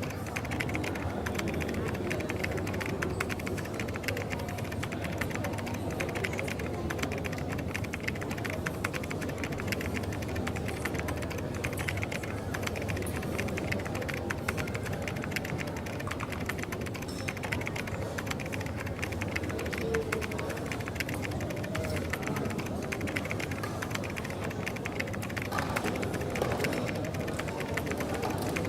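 Coffee shop ambience: a steady background hubbub of the room, with rapid small clicks and clatter throughout.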